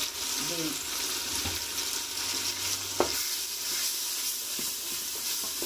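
Onion, tomato and ginger-garlic paste sizzling in hot oil in a pressure cooker pot as they are stirred with a plastic spatula. There is one sharp knock about three seconds in.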